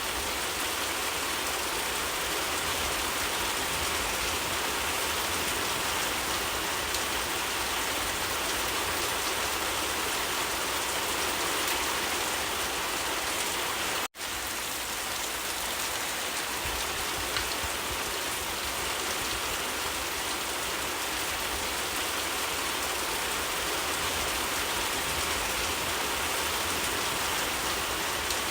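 Steady rain falling, an even hiss of drops on surfaces; the sound cuts out for an instant about halfway through.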